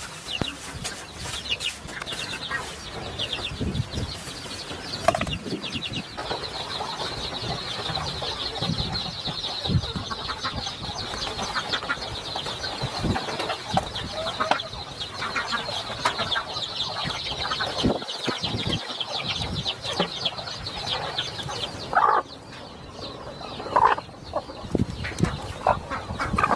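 Chickens and chicks: a dense chorus of high, rapid peeping with lower clucking calls and occasional wing flaps.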